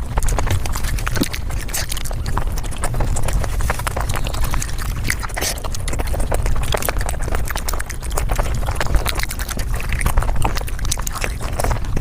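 Close-miked mukbang eating sounds played at five times speed: chewing, crunching and mouth smacks run together into a dense, rapid clatter of clicks over a low rumble.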